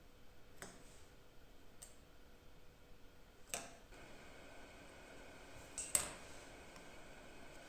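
A few scattered light clicks and knocks of small objects being handled on a workbench, the loudest a double knock about six seconds in.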